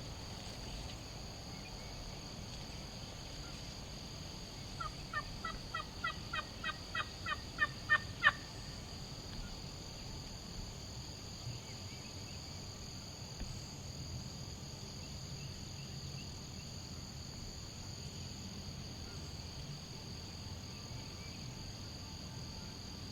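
Turkey yelping: a run of about a dozen short yelps over some three seconds, quickening slightly and getting louder to the last note. High steady insect trilling runs underneath.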